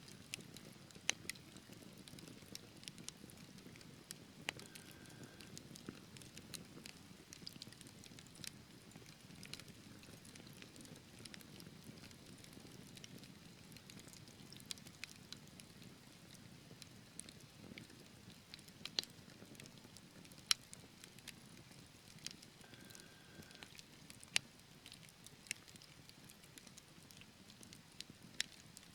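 Wood fire burning in a fireplace: a low steady rumble of flames with irregular sharp crackles and pops from the burning logs.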